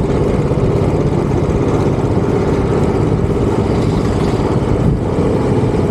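Royal Enfield Bullet 350's single-cylinder engine running steadily at cruising speed on the road, its rapid thumping firing pulses under a steady rush of wind.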